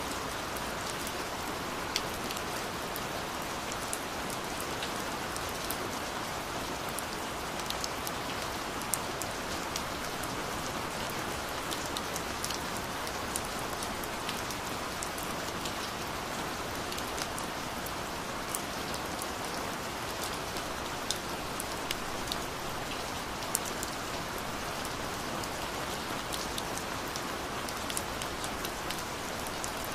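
Gentle rain falling steadily, with many individual drops ticking sharply here and there over an even hiss.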